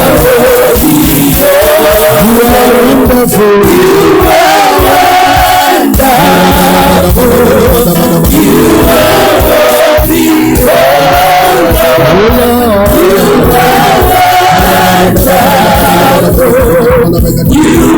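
Gospel worship music: a choir singing sustained, wavering notes over instrumental accompaniment.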